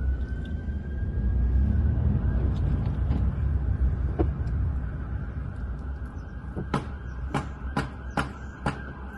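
Faint fire-engine siren heard from inside a moving car, a thin tone holding steady over the rumble of the car's engine and road noise as the fire engine approaches. Several sharp clicks come in the last few seconds.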